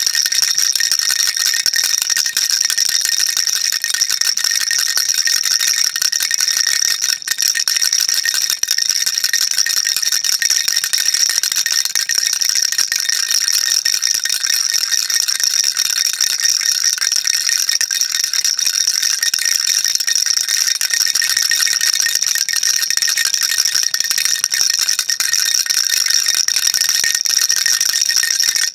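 Baby rattle shaken without a break: a steady, dense, high-pitched rattling.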